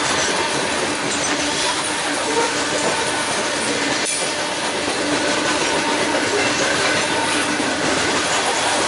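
A train rolling past, its steel wheels rumbling steadily on the rails, with faint steady squealing tones from the wheels.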